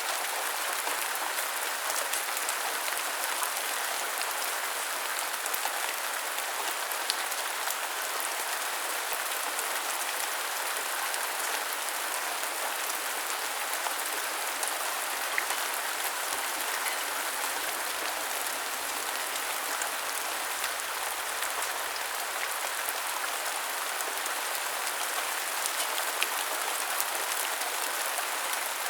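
Steady rain falling and pattering on surfaces, an even hiss with scattered sharp drop ticks.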